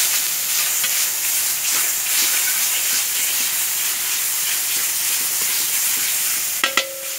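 Ground spice paste sizzling in a little hot oil in a wok, stirred and scraped with a metal spatula. Near the end come two sharp knocks with a brief ring.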